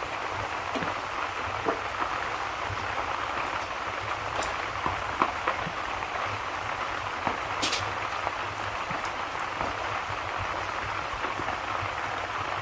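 Steady rain with a fireplace crackling, a few sharp pops standing out against the even hiss of the rain.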